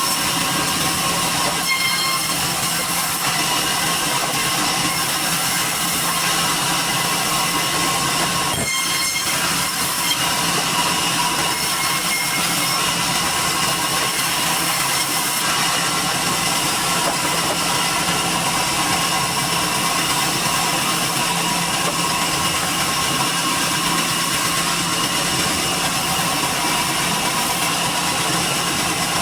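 Sawmill machinery running steadily: a loud, even mechanical noise with a steady whine, and a brief knock about nine seconds in.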